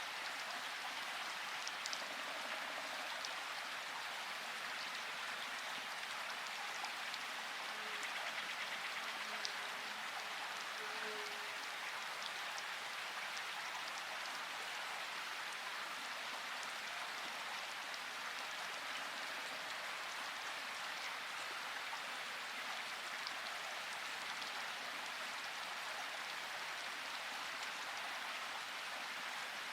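Steady rain falling, a dense even patter of drops with scattered sharper single-drop ticks.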